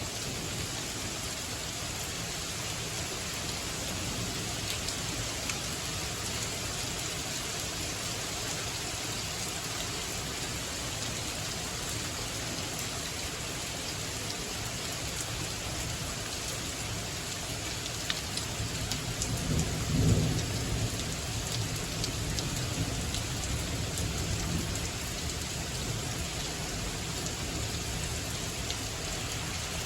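Steady rain mixed with small hail falling on surfaces. A rumble of thunder swells up about two-thirds of the way through, then dies back to the steady fall.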